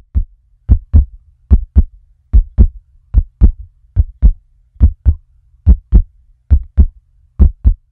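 Heartbeat: deep lub-dub double thumps repeating steadily, a little more than one beat a second.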